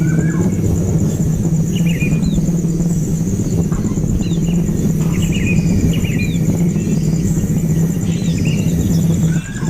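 Baby birds cheeping in short, high, scattered calls over a loud, steady low hum, with a thin, high, steady whine behind them.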